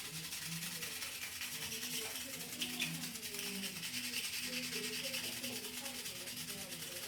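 Steady rubbing and scraping as plastic Lego pieces are handled and pressed into place by hand.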